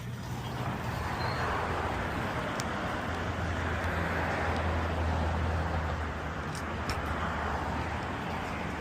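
Steady road-vehicle noise: a low hum under a broad rushing sound that swells and eases, after a single sharp click at the very start.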